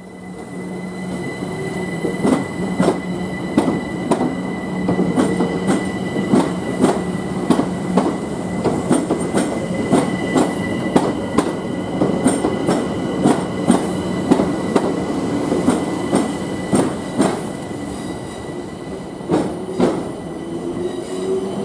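A London Overground Class 378 Capitalstar electric train rolls along the platform. Its wheels clatter in a quick run of sharp clicks over the rail joints and points, over a steady electric whine.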